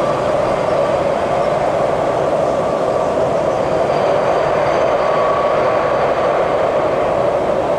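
A train running past with a loud, steady rolling noise of wheels on rails.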